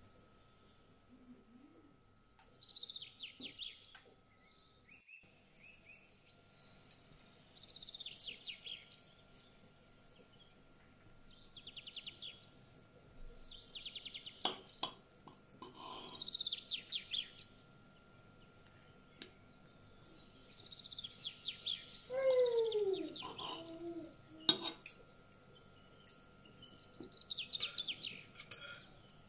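Small birds chirping in short trilled phrases every couple of seconds, with one louder call that falls in pitch about two-thirds of the way through. A few sharp clicks, such as a knife and fork against a plate.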